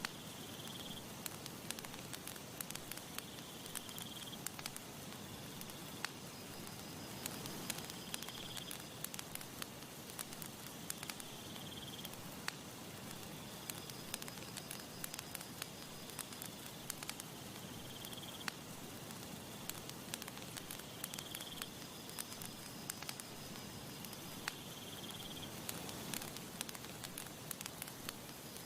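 Campfire crackling and popping with many sharp snaps over a steady hiss. A short high chirp comes every few seconds.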